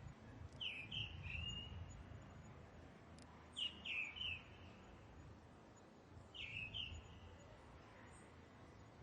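A bird calling three times, each call a quick cluster of high falling chirps, about three seconds apart, over a faint low rumble.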